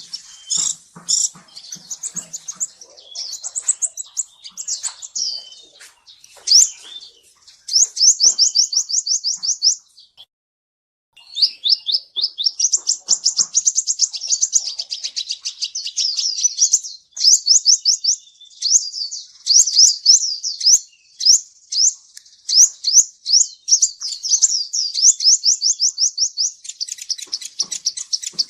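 Kolibri ninja sunbird singing: long runs of very fast, high-pitched chirps and trills, broken once by a short pause about ten seconds in.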